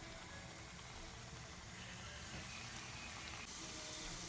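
Rapeseed oil sizzling faintly in a frying pan as dumplings go in, the hiss growing a little louder and brighter near the end.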